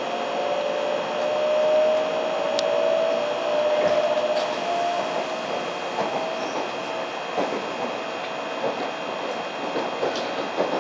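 700 series Hikari Rail Star Shinkansen train running: a steady rumble and hiss with a whine that rises slightly in pitch, and a few light clicks in the second half.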